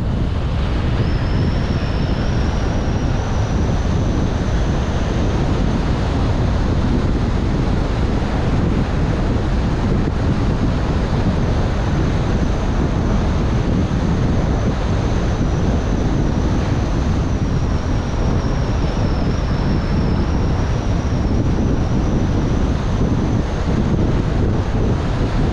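Car driving on a road, with steady road and wind noise and wind buffeting the microphone. A faint, thin high whine sits above it for most of the time.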